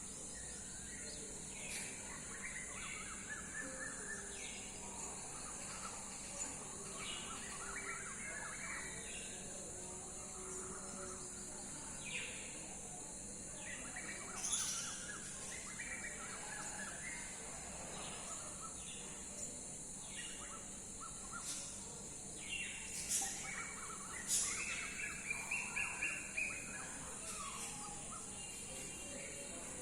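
Several wild birds chirping and calling in short phrases and trills over a steady high-pitched hiss, with a quick run of five or six loud calls near the end.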